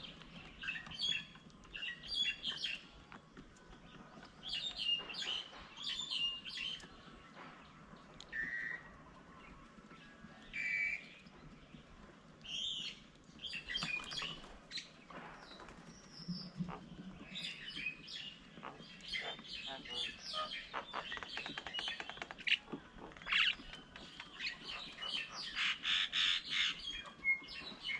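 Wild birds chirping and calling in short scattered bursts, with a denser stretch of chatter near the end.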